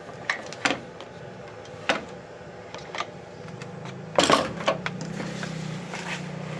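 Post hole digger's recoil starter being worked: scattered clicks, then a short rasping pull of the starter cord about four seconds in. The starter slips without turning the engine over. A low steady hum follows the pull.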